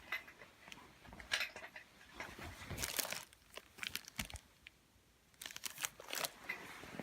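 Irregular rustling and crinkling with light clicks and knocks, coming in short clusters with quiet gaps between.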